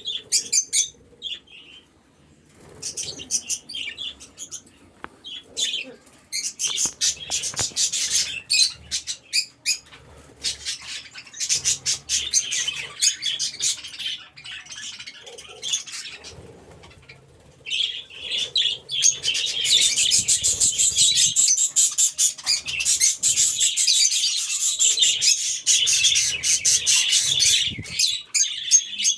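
A flock of budgerigars chattering and chirping in rapid, high twitters, patchy at first and then swelling into a continuous, louder chorus about two-thirds of the way in.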